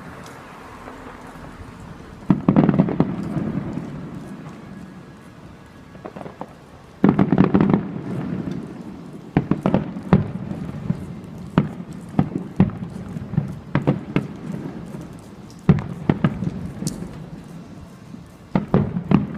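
Aerial fireworks shells bursting, with two big booms a few seconds apart, each trailing off in a long rolling rumble. Then comes a quicker run of sharp bangs and crackles through the second half.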